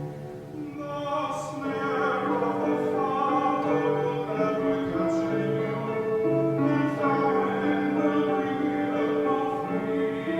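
Slow music with a solo singer holding long notes over an instrumental accompaniment.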